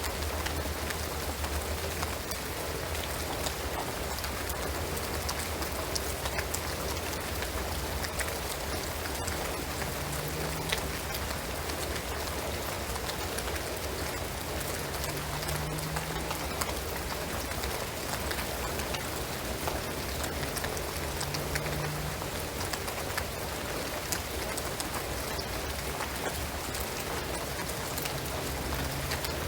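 Steady rain falling on a shingled roof and pine trees, with many separate drops ticking through the even patter.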